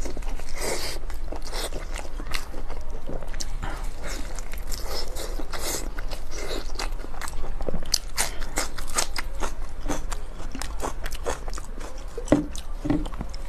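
Close-miked eating: crunchy bites and chewing of a crisp-skinned fried sheep brain wrapped in intestine, with many irregular crackles as the crust is bitten and torn.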